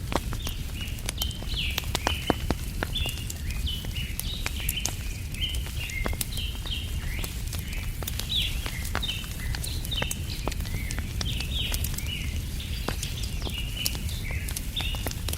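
Wood fire crackling with frequent sharp pops, under a steady chatter of many short bird chirps. A low steady rumble sits underneath.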